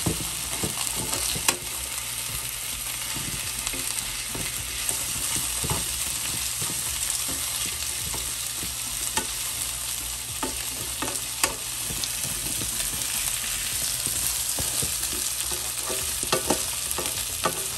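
Beef steak bites with diced onion and bell pepper sizzling in oil in an electric skillet, turned and mixed with tongs. The sizzle is steady, with a click now and then as the tongs knock the pan.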